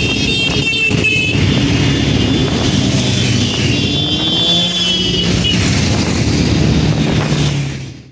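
A mass of motorcycles and scooters riding together in the street, many engines running and revving at once, with mixed traffic noise; it fades out near the end.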